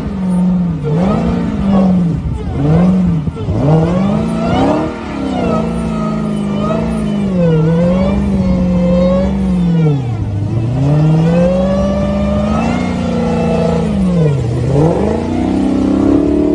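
Dodge Challenger SRT Hellcat's supercharged V8 revving hard through a burnout, the rear tyre spinning and smoking. The engine note holds high, then dips and climbs again several times, dropping lowest about ten seconds in and again near the end.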